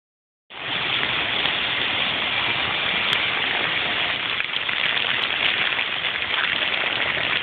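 Heavy rain mixed with hail coming down hard, a dense, steady hiss that starts about half a second in.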